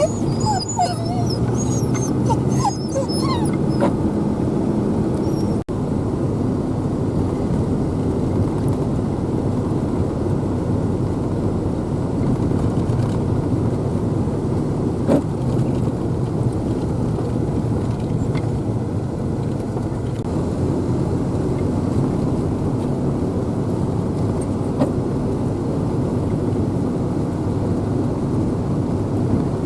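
Steady rumble of a vehicle driving, heard from inside the cab. In the first few seconds a dog whines with short, wavering high cries.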